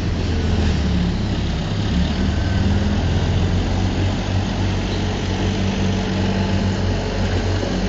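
Heavy construction machine's diesel engine running steadily, a deep, even engine drone.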